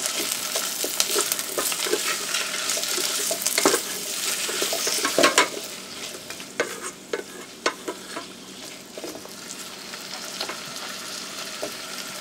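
Onions, garlic and ginger sizzling in hot oil in a metal rice-cooker pot while a wooden spoon stirs them, scraping and tapping against the pot. The sizzle and stirring are louder at first and drop off about halfway through, leaving a quieter sizzle with scattered taps.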